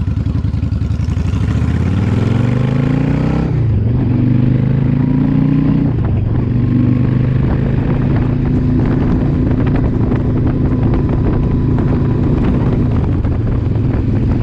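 2004 Yamaha V-Star 1100's air-cooled V-twin with aftermarket pipes pulling away under acceleration. Its pitch climbs, drops at a shift about three and a half seconds in, climbs again and drops at a second shift about six seconds in, then runs steadily at cruising speed. This is the bike running on the road after its carburetors were cleaned to cure an engine that only ran on choke.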